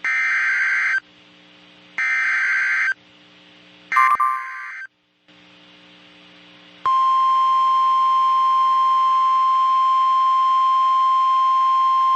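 Emergency alert signal from NOAA Weather Radio. It opens with three one-second screeching digital data bursts (the SAME header), a second apart, and then a loud, steady single-pitch warning alarm tone starts about seven seconds in: the signal that a warning, here a severe thunderstorm warning, is about to be read.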